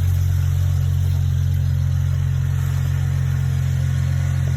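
BMW N54 twin-turbo inline-six engine idling steadily with a low, even hum.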